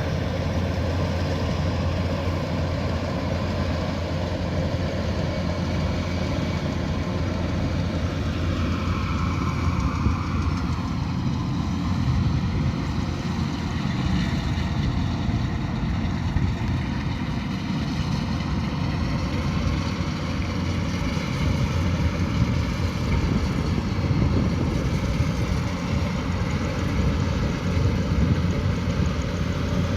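Kubota DC108X combine harvester's diesel engine and threshing machinery running steadily. A higher machine whine dips in pitch about ten seconds in.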